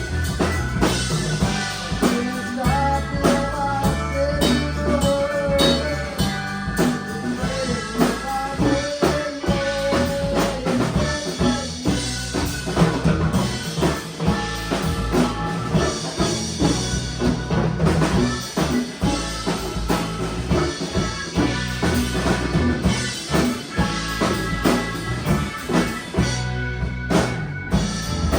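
Band playing an instrumental passage: a drum kit keeping a steady beat with snare and bass drum under bass and guitar, with a wavering melodic lead line in the first third.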